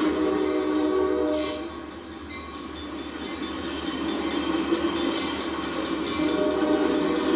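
Passenger train's horn sounding twice, a blast of about a second and a half and a second one starting near the end, over the locomotive's rumble. A crossing bell dings steadily, about three strikes a second, its gates down with the train stopped across the street.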